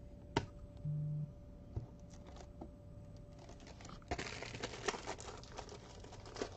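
Plastic wrapping on a trading-card box being crinkled and torn open, a dense crackling rustle that starts about four seconds in, after a single click and a short low buzz.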